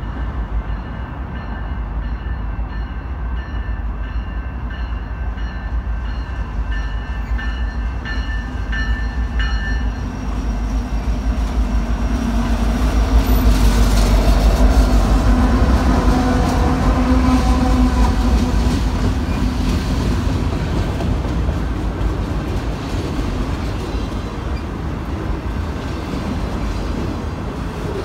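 Diesel train horn sounding for about ten seconds, breaking into short blasts at the end, over a steady rumble. Then a train passes close by, its locomotive and rolling wheels loudest about halfway through and easing off toward the end.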